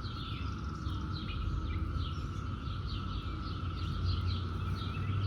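Steady, even drone of a chorus of periodical cicadas (the 2021 emergence). Over it, a bird repeats short falling chirps about twice a second, above a low rumble.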